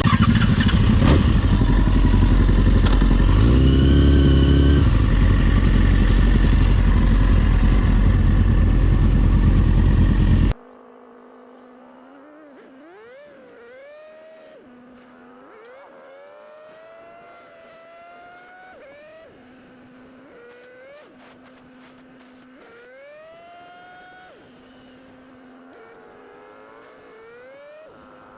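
Motorcycle riding with heavy wind noise on the helmet microphone for about ten seconds, then an abrupt cut to a quieter motorcycle engine revving over and over, its pitch rising with each rev and dropping back to a steady idle between.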